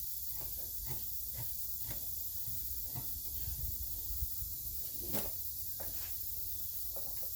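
Steady hiss with faint, scattered clicks and taps of tools and small metal parts being handled, and one sharper click about five seconds in.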